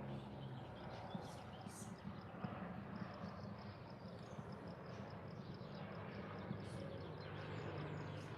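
Outdoor garden ambience: birds chirping intermittently, with a rapid, even high-pitched ticking and a steady low hum underneath.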